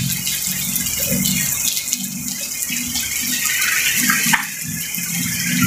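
Heavy rain pouring down in a steady hiss, with an uneven low rumble underneath.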